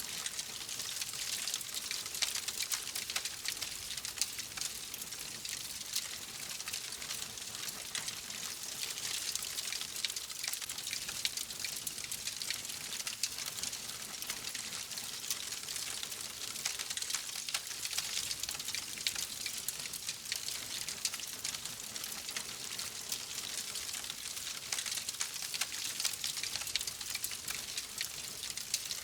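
Wood fire crackling steadily: a dense patter of small pops and snaps over a soft hiss, with no let-up.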